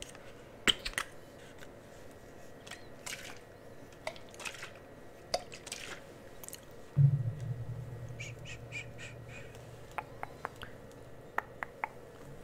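Cosmetic products and their containers handled close to the microphone: scattered light taps and clicks, with a few brief brushing swishes. About seven seconds in, a low steady hum starts abruptly and carries on under a quick run of light ticks.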